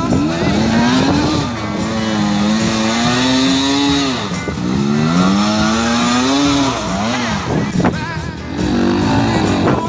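Enduro dirt bike engines revving through a water crossing. The pitch climbs, is held for a couple of seconds, then drops, about three times over.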